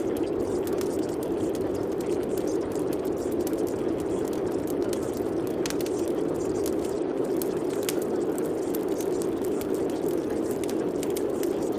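Steady rain: a dense, even rush of falling water with scattered sharp drop ticks.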